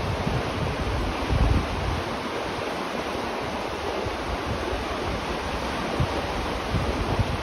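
River water flowing steadily, heard from beneath a bridge, with irregular low rumbles underneath, the strongest about one and a half seconds in.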